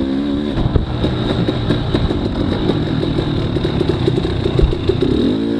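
Two-stroke dirt bike engine running under a rider, its revs falling off early then surging and dropping unevenly, with clattering knocks from the bike over rough ground; the revs climb and hold near the end.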